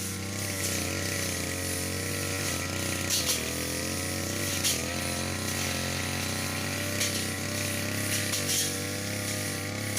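Brush cutter engine running steadily as it cuts grass, its pitch dipping briefly a few times as the blade takes load, with several short sharp hits.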